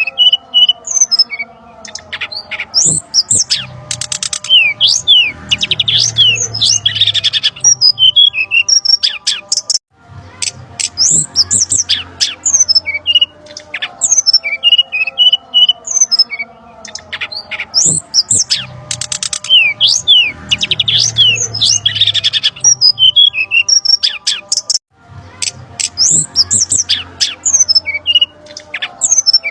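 Bird-lure recording of brown-chested jungle flycatcher calls: a busy mix of short chirps, falling whistled slurs and rattling trills. It repeats as a loop about every 15 seconds, with brief cuts near 10 and 25 seconds.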